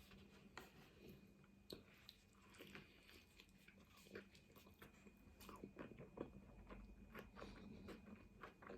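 Faint eating sounds: a person chewing a mouthful of lahmacun, with soft mouth clicks and crunches that grow busier about halfway through.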